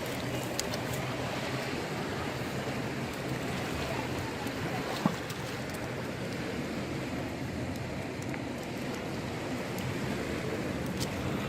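Steady rush of flowing floodwater, with a single sharp click about halfway through.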